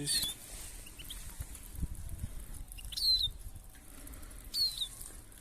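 Small finch giving short, high, downslurred call notes, three of them spaced about one and a half seconds apart, with a few soft low bumps near the middle.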